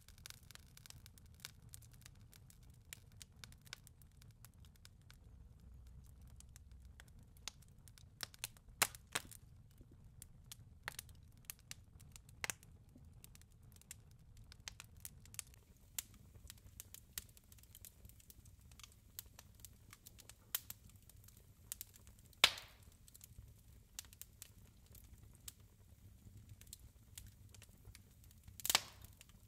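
Wood fire in a fireplace crackling, with irregular small pops and a few louder snaps, the loudest about two-thirds of the way through.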